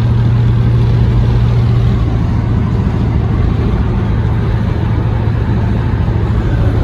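1934 hot rod's engine running at a steady speed while the car drives, a constant low drone over road noise.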